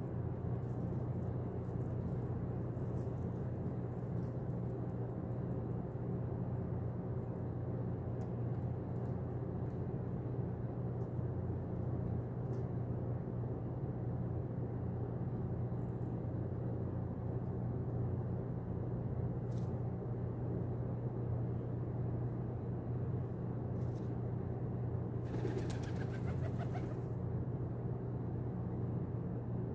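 Pigeons cooing over a steady low rumble, with a short rustling burst a little before the end.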